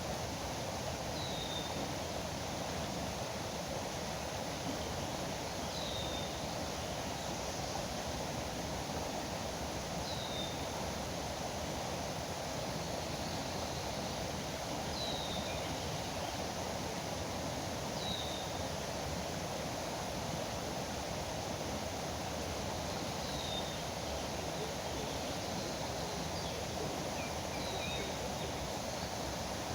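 Steady rushing of a foaming river. Over it, a bird repeats a short, high, falling call every four to five seconds, with a few fainter chirps in between.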